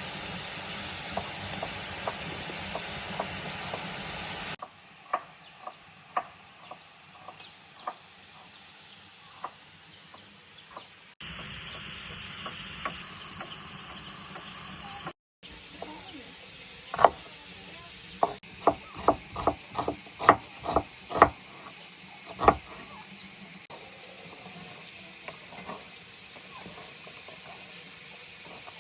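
Cooking sounds across several cut-together shots: a steady sizzling hiss at first, then scattered sharp knocks and taps of utensils. Later comes a quick run of about a dozen knocks, roughly three a second.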